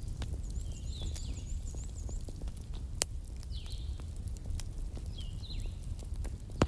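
Wood campfire crackling over a low steady rumble, with scattered small snaps and one sharp pop about three seconds in. Birds call in the background: a short chirp every couple of seconds, and a quick run of high notes in the first two seconds.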